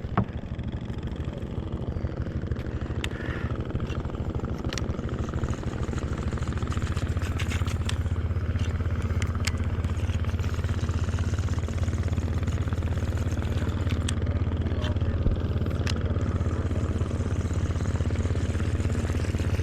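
A boat's engine running steadily at a constant pitch, growing a little louder a few seconds in, with scattered light clicks and knocks over it.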